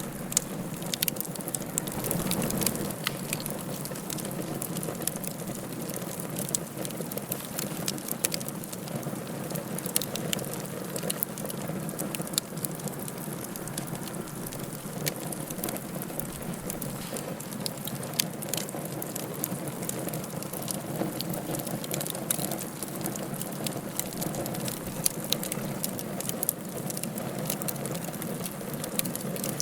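Wood fire burning in a fireplace: a steady low hiss and rumble with frequent sharp crackles and pops.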